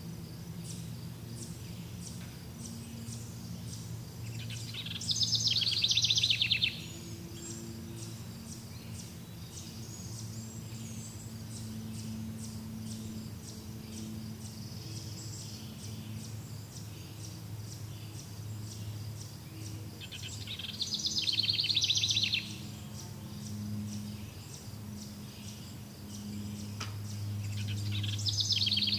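Outdoor nature ambience: insects chirping in a fast, even pulsing rhythm throughout, and a bird singing a short trill three times, about five seconds in, about twenty seconds in and at the end. A steady low hum lies underneath.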